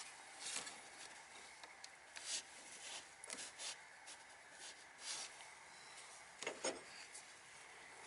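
Faint, scattered rubbing and scraping sounds, several short ones spread through, over a low steady hiss.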